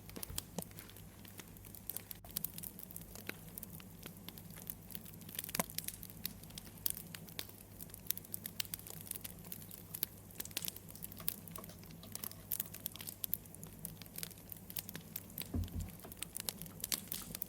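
Wood fire crackling, with a steady run of irregular sharp pops of varying loudness over a faint low hum.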